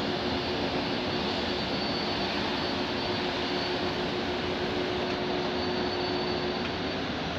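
A train running past: a steady, loud rolling noise with a held whine underneath that stops near the end.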